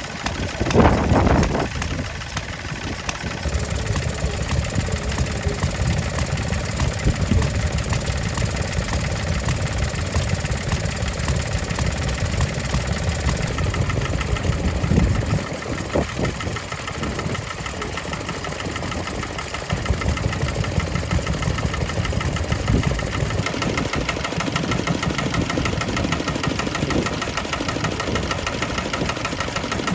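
Stationary engines running with a steady, rapid firing beat. Gusts of wind buffet the microphone, strongest about a second in.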